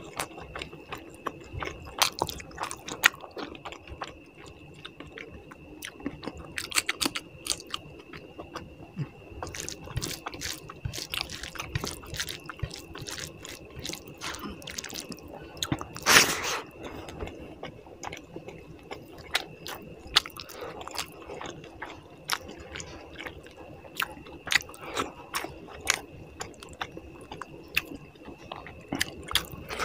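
Close-miked eating sounds of rice and puti fish curry eaten by hand: chewing, lip smacks and wet squishing as fingers mix rice into the curry gravy, in a steady run of short clicks with a louder one about halfway through.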